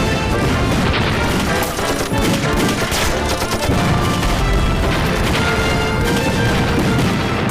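Battle sound effects of a war drama: rapid gunfire and explosions in quick succession, mixed with a dramatic music score.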